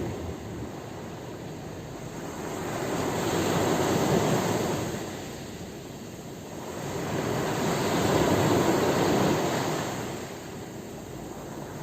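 Sea waves breaking and washing ashore: two surges, each swelling up and fading away, about four seconds apart.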